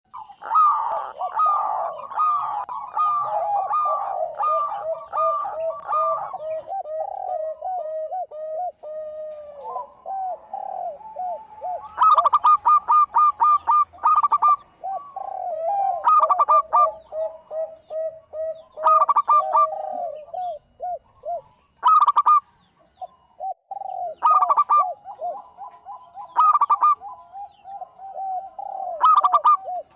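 Local zebra dove (perkutut) singing: long runs of quick, rhythmic coos, and from about twelve seconds in, louder sharp bursts of notes every two to three seconds over the cooing.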